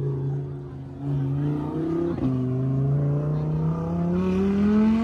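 Car engine revving, held at high revs, dropping briefly about a second in, then climbing slowly in pitch towards the end. A short sharp pop or click comes about two seconds in.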